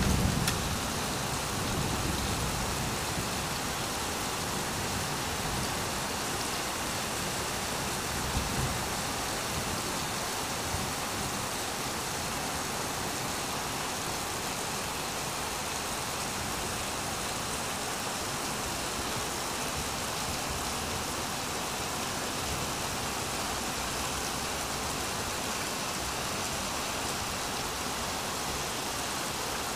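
Steady rain falling, an even hiss, as the tail of a thunder rumble dies away in the first second or so. A short low rumble comes about eight seconds in.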